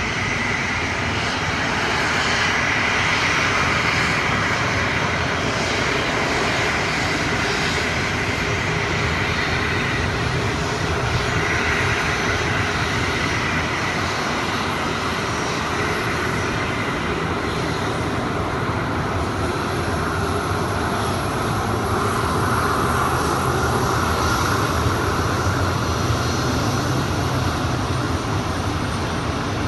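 Jet airliner engines running steadily, with a whine that slowly drifts lower in pitch, mixed with wind buffeting the microphone.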